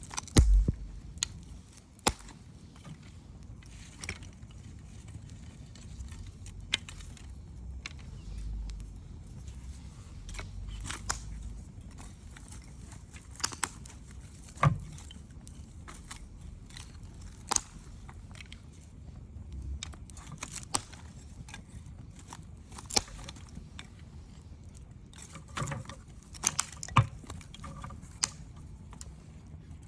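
Wood campfire crackling, with sharp pops of burning wood coming at irregular intervals a second or more apart; the loudest pop comes about half a second in.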